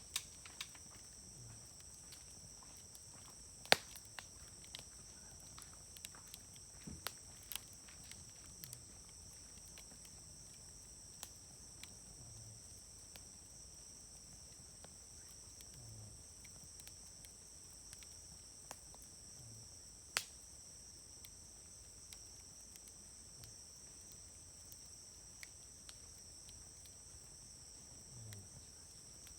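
Wood fire crackling, with scattered sharp pops from the burning wood; the loudest pop comes about four seconds in and another around twenty seconds. Insects trill steadily and high-pitched behind it.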